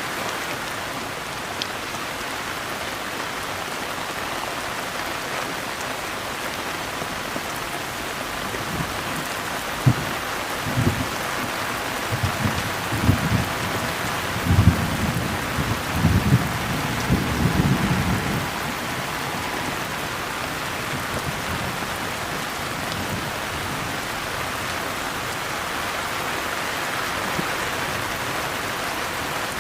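Steady rain pattering down, with a low crackling rumble of thunder rolling through the middle that is loudest about halfway through.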